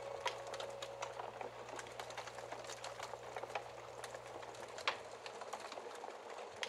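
Wood fire crackling in a fireplace: irregular small pops and snaps over a faint hiss. A held musical note dies away during the first second and a half.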